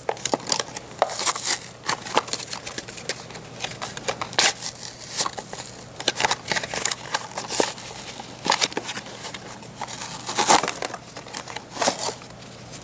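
Toy packaging being pulled open with difficulty: the plastic and cardboard crinkle and crackle in irregular snaps and rustles.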